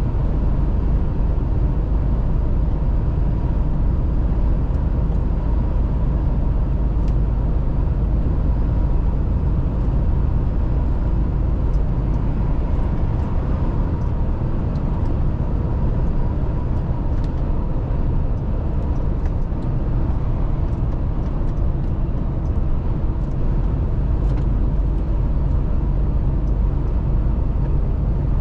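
Mercedes-Benz Actros truck driving along at a steady pace: constant engine and road noise, heaviest in the low end, with a faint steady whine on top.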